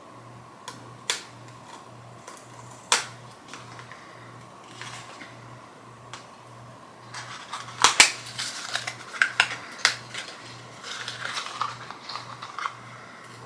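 Products and packaging being handled: a few sharp clicks or taps in the first three seconds, then a busy run of clicks and rustling from about seven to twelve seconds in.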